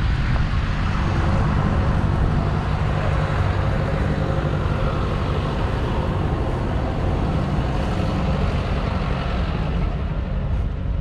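Fendt 936 Vario tractor's 9.0-litre six-cylinder diesel engine running steadily, a low even engine hum.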